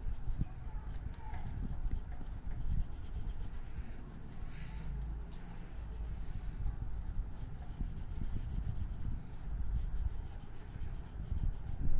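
A drawing tool rubbing in repeated strokes on paper while an area of the picture is coloured in.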